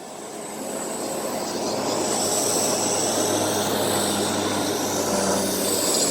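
Aircraft engines growing louder over about two seconds, then running steadily with a high, steady whine.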